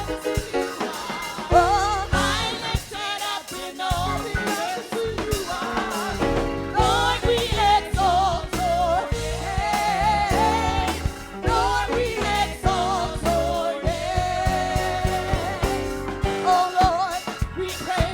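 Gospel praise music: a singer's voice wavering and sliding in pitch over a band with drum kit.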